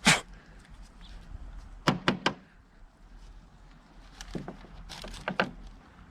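Sharp clicks and light knocks from handling the RV toilet's flush-mechanism parts and actuating lever. One click comes at the start, three come close together about two seconds in, and a loose run of several more follows from about four to five and a half seconds.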